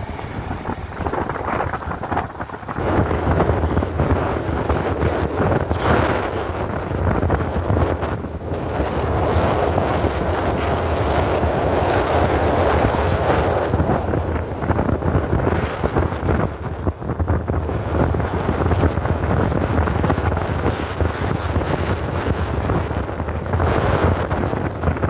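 Mercury Montego sedan driving on a rough dirt trail, heard from inside: a steady rumble of tyres and road noise with frequent small knocks and rattles from the car going over the bumps.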